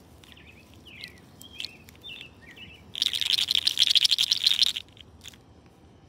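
Small birds chirping in short high calls. About three seconds in, a loud, rapid clicking rattle starts and runs for nearly two seconds before cutting off.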